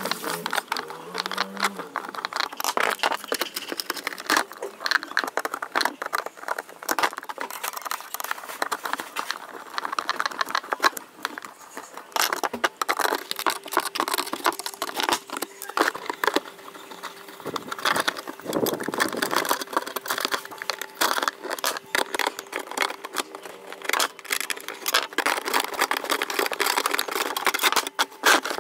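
Hand work on a rusty old fan's parts: a long run of irregular scraping, clicking and knocking. A faint steady hum comes in about halfway through and runs on.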